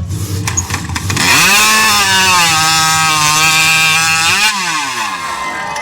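Chainsaw engine revved up to full throttle, held at a steady high pitch for about three seconds, then dropping off about four and a half seconds in.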